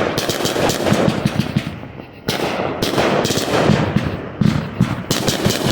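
Fireworks going off close by in rapid strings of sharp bangs, like a machine gun, in three volleys: one at the start, another just after two seconds in, and a third about five seconds in.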